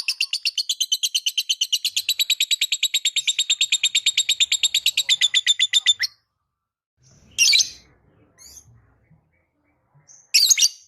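Lovebird chattering in a long, fast run of high chirps, about eight a second, that stops about six seconds in, followed by two short harsh squawks. It is a lure song, the kind played to prompt other lovebirds to sing.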